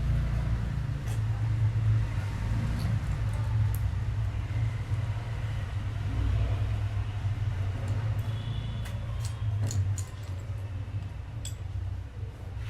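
A steady low hum or rumble, with scattered light clicks and rattles of small plastic building pieces, more of them in the second half.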